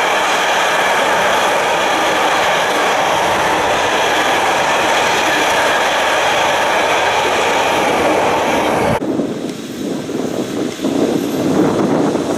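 Container freight train rolling past at speed: a loud, steady rumble and rattle of the wagons with clickety-clack over the rail joints. About nine seconds in it cuts off suddenly to quieter, uneven noise.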